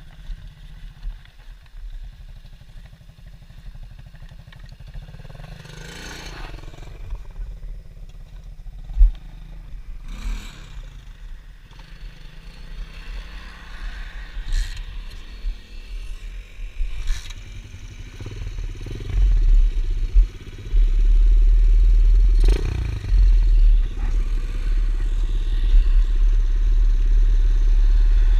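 Pit bike engine running, with a few clattering knocks, growing much louder from about two-thirds of the way through, with a heavy low rumble.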